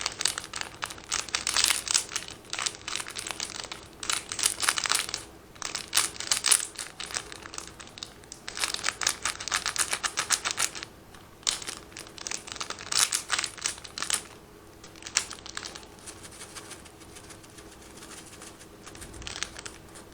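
Plastic instant-noodle seasoning and chili sachets crinkling and crackling as they are handled and squeezed, in dense bursts of crackles that thin out to a few faint rustles after about fourteen seconds.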